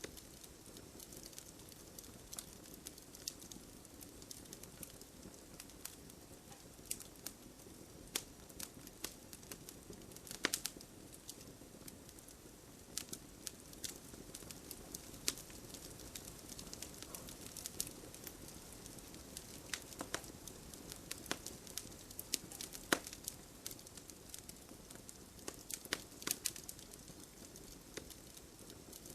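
Wood fire crackling in a fireplace: irregular sharp pops and snaps, a few louder ones near the middle, over a soft low rumble of burning.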